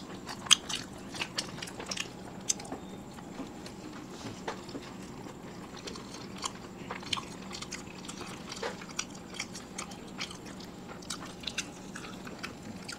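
People biting and chewing satay skewers in a mukbang, with irregular short smacking and clicking mouth sounds.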